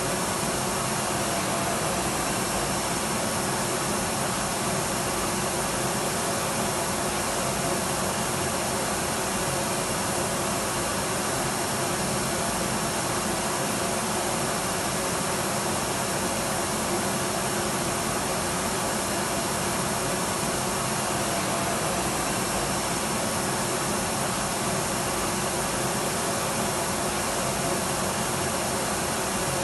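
Electric vacuum cleaner running steadily, a constant even whoosh of motor and air with a faint steady hum, without change in pitch or level.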